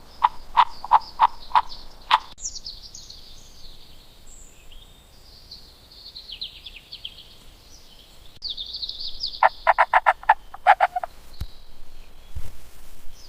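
Frog croaking in short, evenly repeated notes, a few a second near the start and a quicker run of them later. Between the runs there is a high rattling trill.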